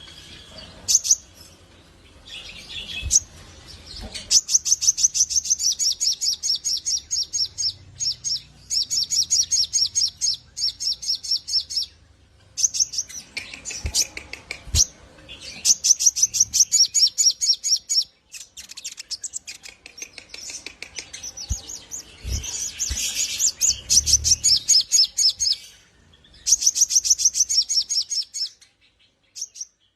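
A sunbird known as sogok ontong (sogon) singing its rattling song: long fast trills of high, evenly repeated notes in phrases of one to three seconds, over and over with short pauses. A few sharp knocks are heard among the phrases.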